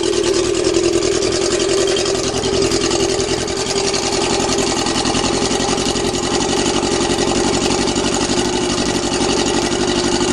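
A dune buggy's Yamaha 650 motorcycle engine idles steadily through its custom stainless steel exhaust, with a bit of a tinny sound. It is cold and only just started, and is held at idle because revving it would stall it.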